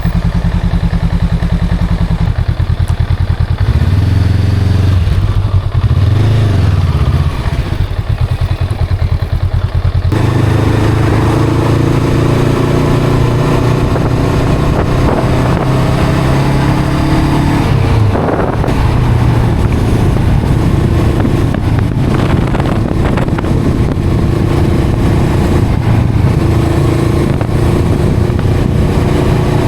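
Honda CL500's 471 cc parallel-twin engine and exhaust running while being ridden, pitch rising and falling with the throttle. It gets louder and fuller about a third of the way in.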